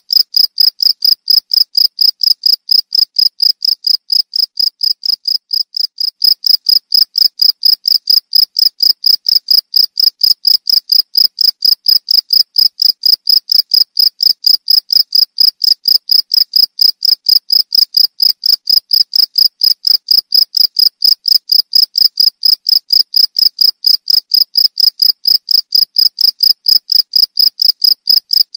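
A cricket chirping: a high, even trill of rapid chirps repeating without a break.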